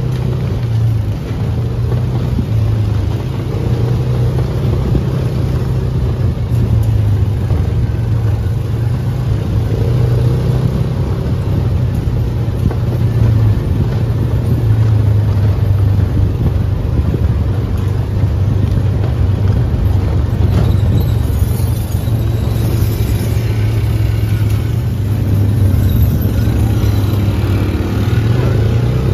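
UTV engine running steadily under way, a constant low drone with road and wind noise over it.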